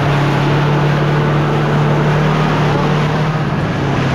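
Side-by-side UTV engine running at a steady speed while driving: an even, unchanging drone.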